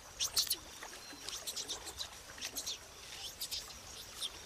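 Small birds chirping: short, high calls several times, over a quiet background.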